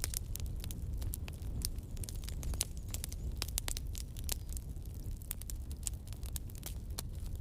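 Wood fire of burning logs crackling: irregular sharp pops and snaps, several a second, over a steady low rumble of the flames.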